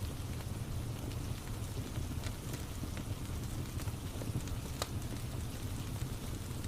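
Crackling wood fire with steady rain: an even low rumble and hiss with scattered sharp pops, the loudest a little before five seconds in.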